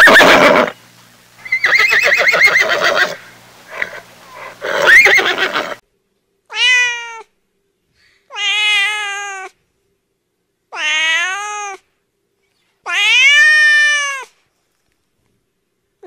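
A horse whinnies several times with a shaky, quavering pitch, then a domestic cat meows four times, each meow rising and then falling in pitch.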